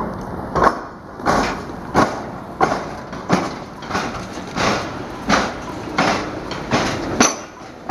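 Steel wheels of a rail vehicle clattering over the tram-square crossing, where tram and train rails cross. A steady run of sharp clunks comes about every two-thirds of a second as the axles pass over the gaps in the crossing.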